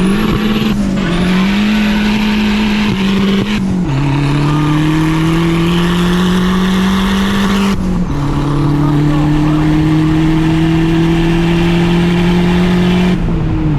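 Car engine under hard acceleration, heard from inside the cabin: its pitch climbs steadily through the gears, dropping at upshifts about four and eight seconds in, then eases back off near the end.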